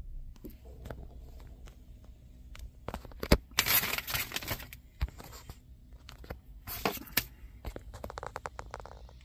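Rustling and crackling with scattered clicks, a sharp knock about a third of the way in, and two short bursts of noise, one near the middle and one later.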